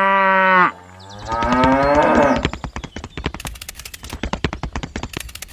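A cow mooing: one long call that ends suddenly, then a second, rougher moo. After that comes about three seconds of rapid, irregular clicking and rattling.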